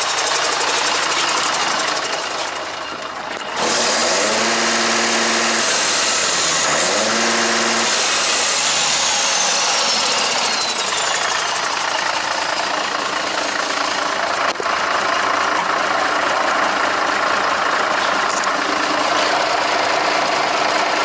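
Mercedes-Benz SK 1824 truck's V6 diesel engine running loudly. It gets suddenly louder a few seconds in, then revs up and down twice before settling back to a steady run.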